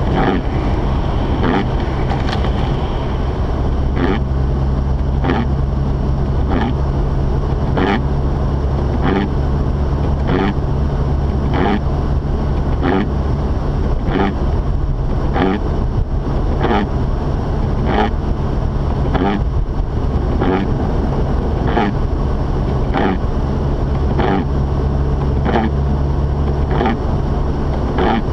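Inside a moving Mazda RX-8: steady low drone of the twin-rotor rotary engine and road noise, with the windshield wipers sweeping at an even pace, about once a second, through the snow.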